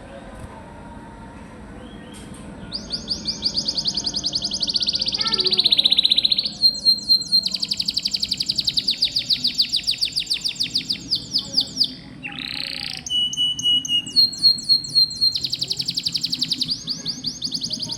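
Domestic canary singing long, fast rolling trills, phrase after phrase of rapidly repeated high notes, starting about three seconds in, with a brief harsher note near the middle.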